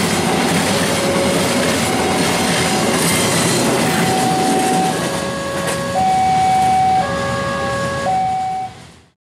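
Freight train wagons rolling past on the rails with a steady clatter of wheels, while an electronic warning tone alternates between two pitches about once a second. The sound fades out just before the end.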